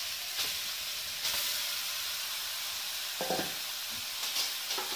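Grated carrots frying in hot ghee in a steel kadai, a steady sizzling hiss as they go into the fat. A few short knocks sound over it.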